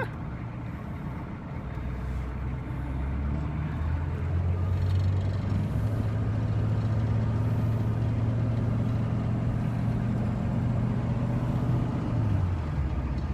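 A 1986 Chevrolet C10's 6.2 L diesel V8 pulling away. Its low drone rises and grows louder over the first few seconds, holds steady, then drops off near the end.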